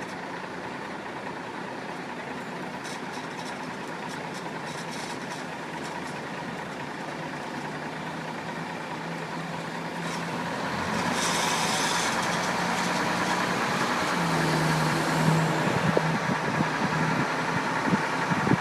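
Truck running down the road, a steady engine and road noise that grows louder about halfway through, with a low engine tone and uneven low thumps near the end.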